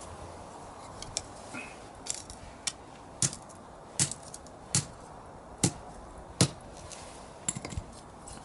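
A series of sharp, separate knocks or snaps, roughly one a second and irregular, with a quick cluster near the end.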